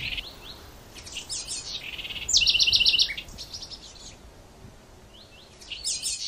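Songbirds chirping, with a loud fast trill about two and a half seconds in and further chirps near the end.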